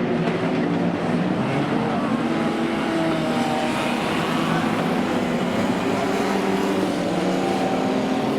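Several banger racing cars' engines running together on the track, a steady mix of engine notes at different pitches.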